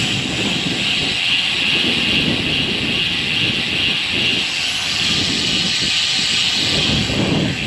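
Strong gusty wind buffeting the microphone while riding a road bike: an uneven low rumble that swells and fades over a steady high rushing hiss.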